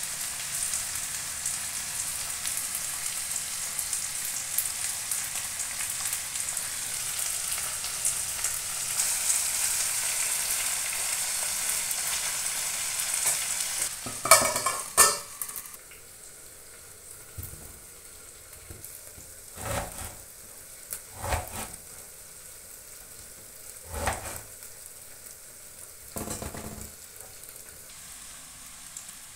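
Brinjal and green chillies sizzling as they fry in a kadai, stirred with a metal slotted spatula. About halfway through come a couple of loud clanks, the sizzle ends, and a knife then cuts on a cutting board about five times, a couple of seconds apart, slicing tomatoes.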